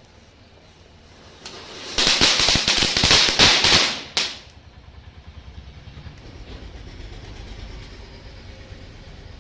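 A firecracker going off: dense, loud crackling and fizzing for about two seconds, ending with one last short burst. A low steady rumble follows.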